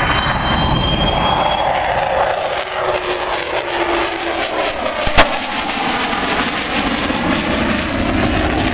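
Jet engines of an Avro Vulcan bomber running as it makes a display pass, a steady loud jet noise. A single sharp knock comes about five seconds in.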